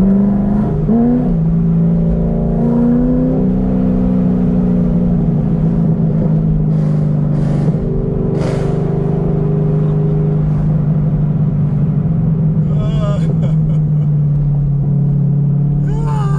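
Modified 2006 Corvette Z06's 7.0-litre V8 running steadily at low revs while cruising, heard from inside the cabin.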